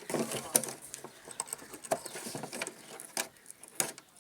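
Irregular mechanical clicks and knocks of small hard parts being handled, with a busy rattle at the start and about five sharp clicks spaced out after it.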